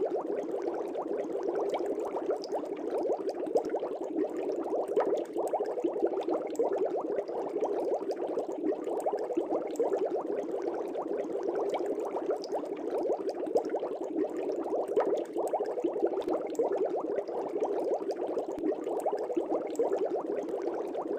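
Fish tank air bubbles rising and breaking at the water surface, a steady continuous burble with many small pops.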